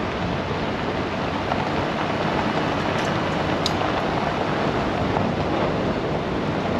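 Cab noise of a pickup truck driving slowly on a dirt forest road: a steady rumble of tyres on the road surface and the engine, with a couple of small ticks a few seconds in.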